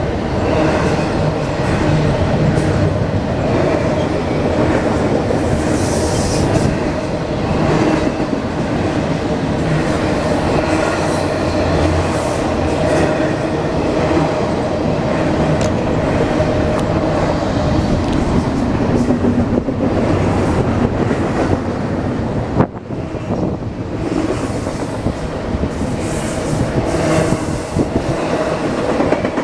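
A train rolling past close by, its wheels clattering steadily over the rails, with brief high-pitched wheel squeals about six seconds in and again near the end.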